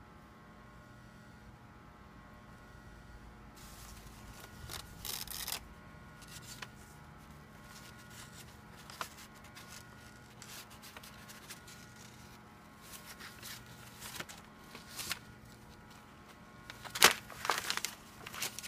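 Paper rustling and light clicks at a ScanSnap document scanner over a steady electrical hum. The loudest is a sharp click followed by a burst of rustling near the end.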